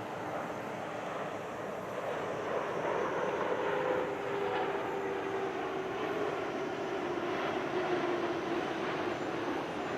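Twin-engine widebody jet airliner flying past: a steady rushing jet noise that swells about two seconds in, with a faint whine slowly falling in pitch as it goes by.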